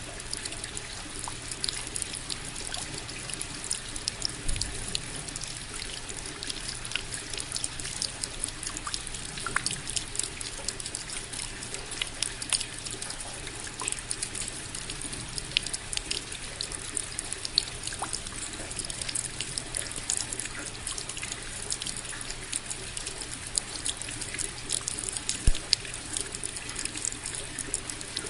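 Steady rain falling, a constant hiss with many separate drops ticking sharply on a hard surface, one drop landing louder about 25 seconds in.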